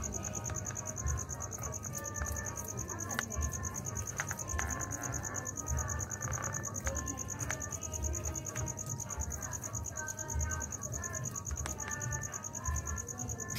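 Insects chirring in a high, steady, fast-pulsing trill, over a low, uneven rumble.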